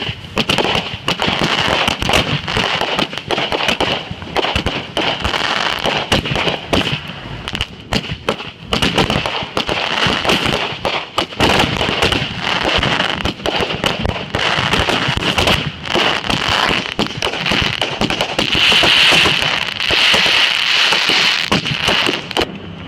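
Consumer fireworks going off in a dense, rapid run of crackles and pops that does not let up, loudest a little before the end.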